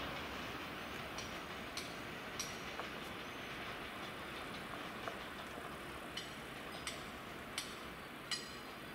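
Freight train wagons rolling away, a steady fairly faint rumble with about ten sharp, irregular clicks of wheels passing over rail joints.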